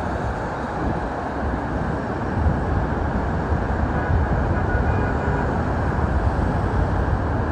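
Steady low rumble of noise inside an Emirates Airbus A380's cabin around landing, with no distinct events.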